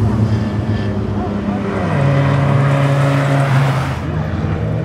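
Race car engine running on a circuit: a steady drone that steps up in pitch about two seconds in and drops back near the end.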